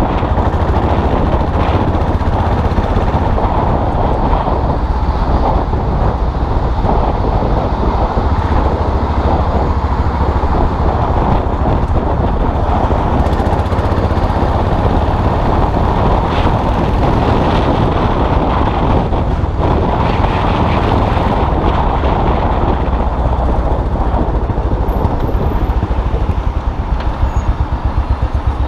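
Custom motorcycle engine running on the move, with road noise and wind mixed in. Near the end the sound turns into slower, even pulses as the engine drops toward idle.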